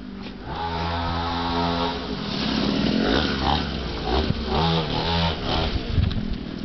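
Small 49cc dirt bike engine running: a steady buzz at first, then its pitch rising and falling as the throttle is worked.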